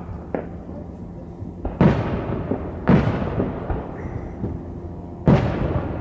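Fireworks shells bursting in the air: three booms, each followed by a long rolling rumble that fades, with a couple of small pops just before.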